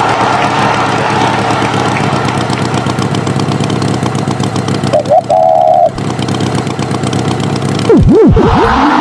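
Animated engine sound effect running steadily, with a short horn-like tone about five seconds in and quick swooping pitch glides down and up near the end.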